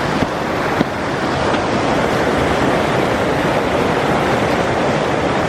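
Snowmelt stream rushing out from under ice, a loud steady rush of water, with a couple of small clicks about a second in.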